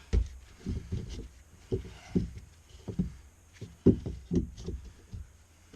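Irregular dull thumps and knocks on wood from work with a jack under a floor being raised, the strongest about four seconds in.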